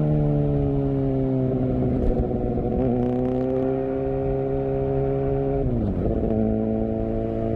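Suzuki GSX-R750's inline-four engine running through its exhaust, the note sliding slowly downward, stepping up about three seconds in, then dropping sharply near six seconds and holding steady.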